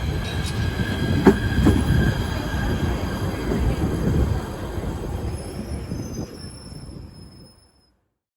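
A train running past on the rails: a low rumble with a couple of sharp clicks and a steady high wheel squeal, with higher squealing tones as it fades away. The sound cuts off suddenly near the end.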